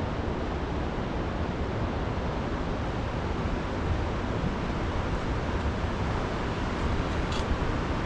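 Steady rushing noise of a river in heavy flood, with a strong low rumble.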